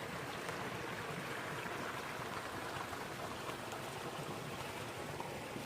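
Woodland brook babbling steadily, with rain or sleet pattering.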